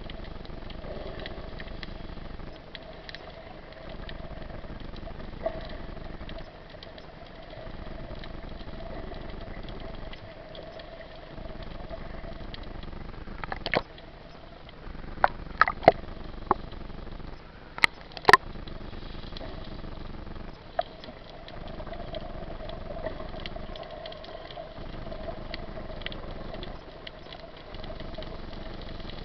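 A steady motor hum, with a run of sharp clicks or knocks about halfway through.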